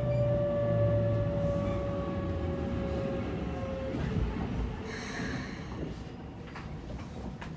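Keikyu 600 series train's Mitsubishi GTO-VVVF inverter whining under braking, the pitch falling slowly as the train slows to a stop, then cutting out about four seconds in. A short hiss of air follows, then a few clicks as the train stands.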